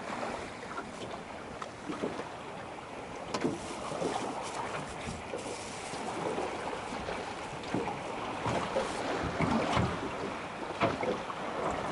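Wind buffeting the microphone, with scattered light knocks and rustles of handling close by.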